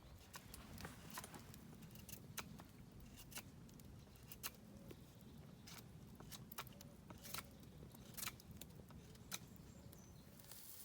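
Campfire crackling: sharp, irregular pops and cracks, about one or two a second, over a faint low rumble.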